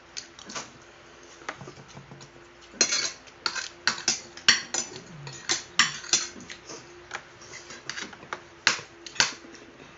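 Cutlery clinking against plates during a meal: irregular sharp clinks, quiet at first, then louder and more frequent from about three seconds in.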